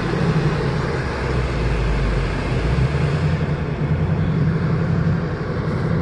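2018 Mustang GT's 5.0-litre V8 running steadily as the car climbs a snowy hill, over a constant hiss of tyre and road noise.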